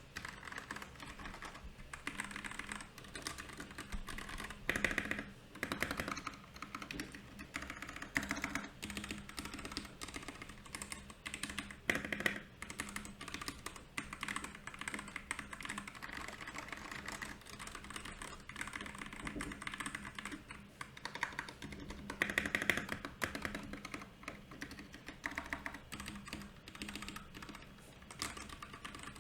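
Typing on a Royal Kludge RK68 mechanical keyboard: a steady stream of key clicks, with a few louder clusters of keystrokes.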